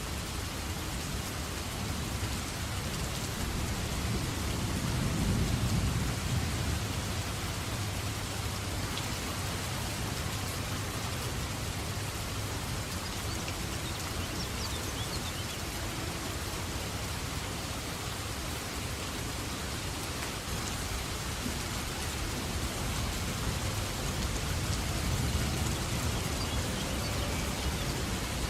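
Steady heavy rain falling on a forest, with low rolls of thunder swelling twice: about five seconds in and again near the end.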